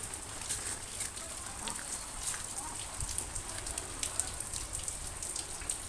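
Storm rain falling, with many irregular sharp taps of drops striking nearby surfaces.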